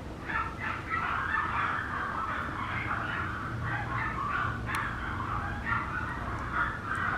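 Papillon puppy whining and squeaking in a constant run of short, high-pitched calls.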